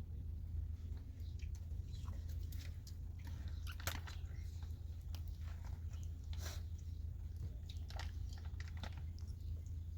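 People eating: chewing and crunching, with scattered small clicks of food and utensils over a steady low hum.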